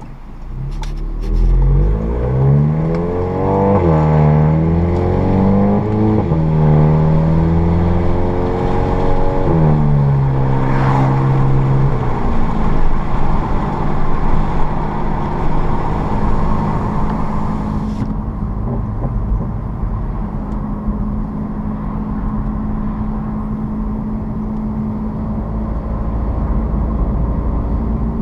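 Turbocharged 2.0-litre four-cylinder of a VW Mk7 GTI with an APR Stage 2 tune and a Borla S-Type catback exhaust, accelerating hard through several quick DSG upshifts: the engine note climbs and drops back with each shift. After about twelve seconds it settles into a steady cruising drone.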